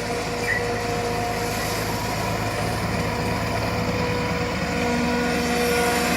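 Heavy vehicle's diesel engine running steadily, with a steady whine over the hum. A lower tone joins about five seconds in as it gets slightly louder.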